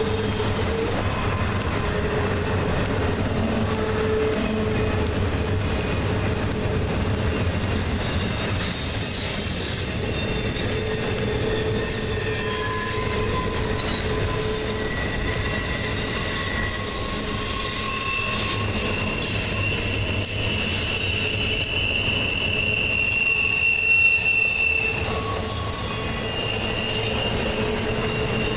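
Freight train cars rolling by with a steady low rumble of wheels on rail, while wheel flanges squeal in high, shifting tones that come and go. The longest squeal is held for several seconds past the middle.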